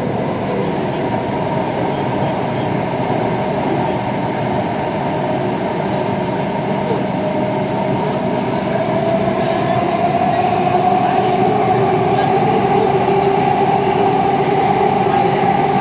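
Metro train running, heard from inside a carriage: a steady rumble and rush of running noise, with a motor whine that rises in pitch and gets a little louder from about ten seconds in.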